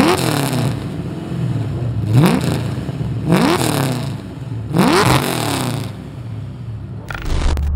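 Built, supercharged LS V8 in a Nissan 240SX idling and blipped about four times. Each rev rises sharply and drops straight back to idle.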